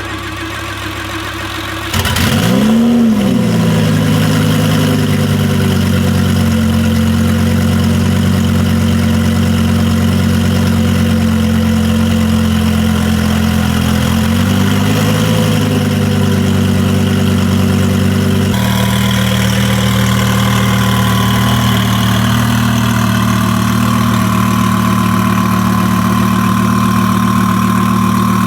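Twin-turbo Audi R8 V10 Plus idling, with a quick blip of the throttle about two seconds in and a smaller one about halfway through. The idle note changes about two-thirds of the way through, and a steady higher whine joins it.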